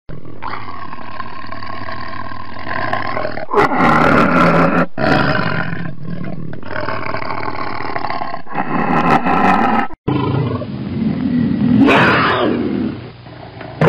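Tiger roaring: several long, loud roars one after another, with a short break about ten seconds in.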